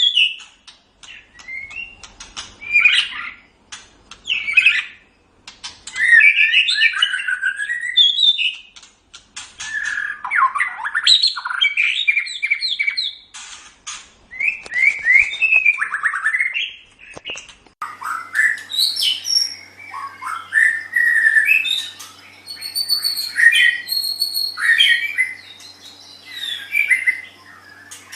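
White-rumped shama (murai batu) singing in varied phrases of sliding whistles mixed with harsher notes, with short pauses between them. About 18 s in, the song turns higher and busier, over a faint steady hum.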